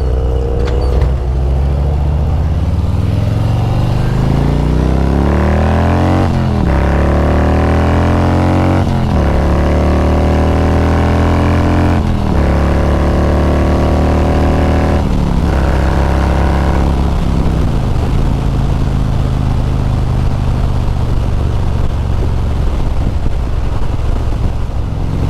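Harley-Davidson V-twin motorcycle engine accelerating hard through the gears, its pitch climbing and dropping at each of about five upshifts. It then settles into a steady cruise for the last several seconds.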